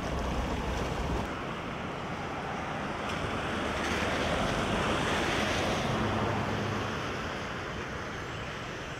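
Steady rushing of floodwater, swelling for a few seconds in the middle and then easing.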